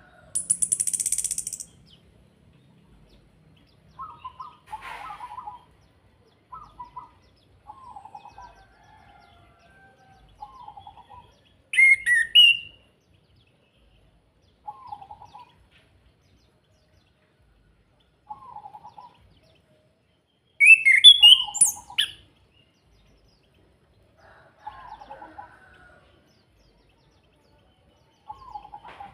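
Chestnut-capped thrush (anis kembang) singing in short repeated phrases a couple of seconds apart. It opens with a loud, high buzzy burst, and two louder sharp phrases come about twelve and twenty-one seconds in.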